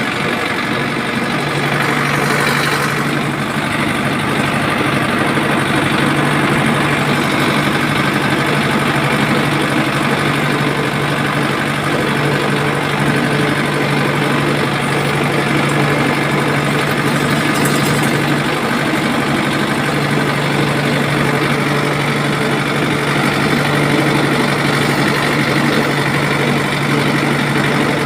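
A motor running steadily at an even speed, with a constant low hum.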